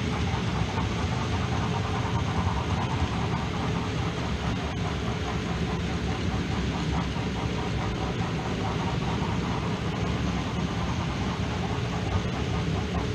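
OO gauge model Garratt locomotive running along the layout: a steady rumble of wheels and motor on the track.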